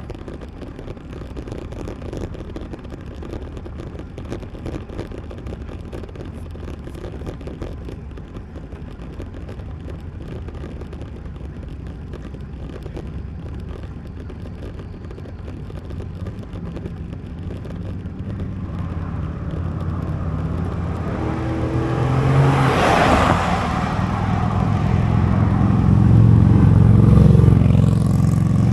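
Steady low rush of wind and road noise while cycling. About two-thirds of the way through, a motor vehicle's engine grows steadily louder and passes close near the end.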